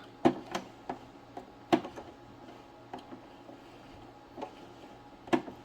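About ten light clicks and taps at uneven intervals, several in the first two seconds and more spread out after, like small objects being handled and set down.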